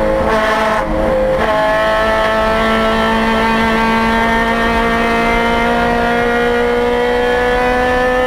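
A 2008 Honda Civic Si race car's four-cylinder engine, heard from inside the cabin. The engine pitch dips and wavers briefly in the first second and a half as the car slows for a bend. It then climbs slowly and steadily as the car accelerates under power down the straight.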